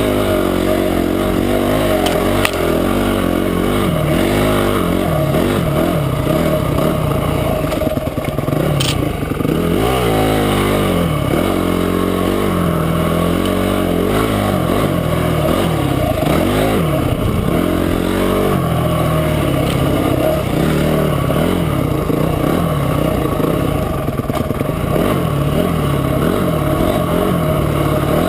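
Motorcycle engine running under way, its pitch rising and falling as the throttle is opened and closed. Two brief sharp clicks are heard in the first third.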